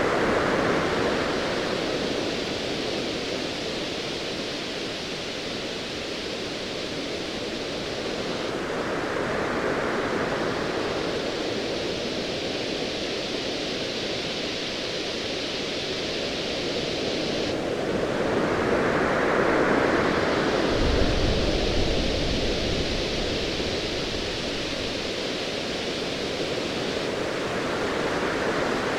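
Ocean waves surging in slow swells about every nine to ten seconds over a steady wash of surf. A low distant rumble of thunder comes in a little past the middle and lasts a few seconds.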